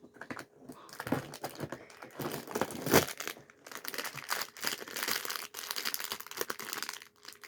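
Lego advent calendar packaging being opened by hand: cardboard and the small plastic bag of bricks crinkling and tearing in quick irregular crackles, with one sharp snap about three seconds in.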